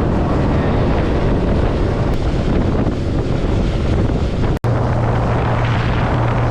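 Boat motor running under way with heavy wind rushing over the microphone. The sound cuts out for an instant about halfway through, then goes on with a steadier low hum.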